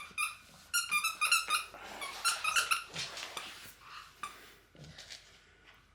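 French bulldog puppy at play with a toy: a quick run of short, high-pitched squeaks at one steady pitch in the first two seconds, then rougher, noisier sounds that fade out about five seconds in.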